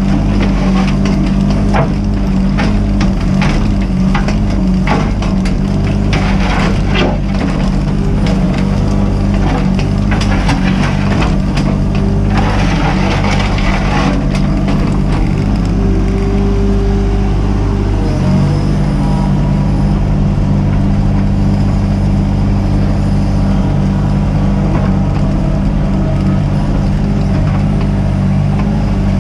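Mini excavator's diesel engine running steadily under load, with frequent knocks, cracks and scraping of the bucket working through debris over the first half. The engine note shifts up about two-thirds of the way through.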